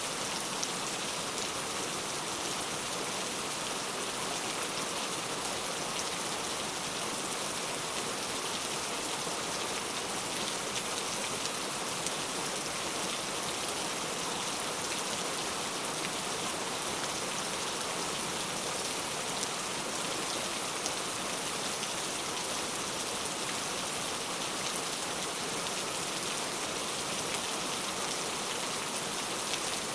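Steady rain falling, an even hiss of many drops with faint scattered taps.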